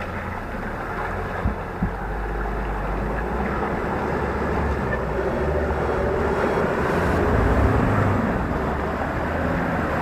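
Off-road vehicle engine running steadily under load, with wind buffeting the microphone. There are two sharp knocks about a second and a half in, and the engine swells slightly in loudness near the end.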